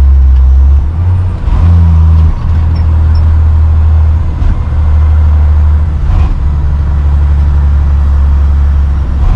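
Steady low engine and road rumble inside a moving truck's cab, with a few brief dips in level.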